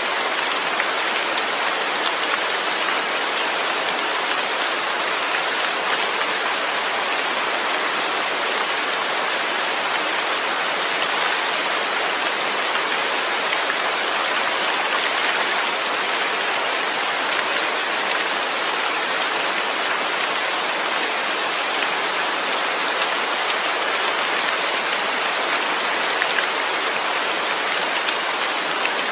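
Steady rain falling, an even hiss of drops with no distinct individual strikes.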